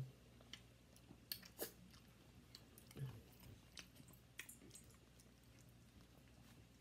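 Faint close-up chewing with scattered small clicks and smacks: people eating, a plastic fork working through food in a plastic tray.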